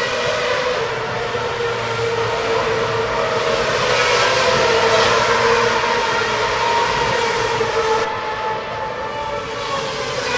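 Racing car engines running at high revs in a steady, dense drone that swells about four to five seconds in and dips suddenly about eight seconds in, before building again near the end.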